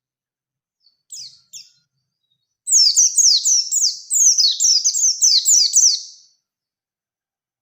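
White-eye (pleci) singing: two short high chirps about a second in, then a rapid rolling run of high, quickly falling notes lasting about three and a half seconds.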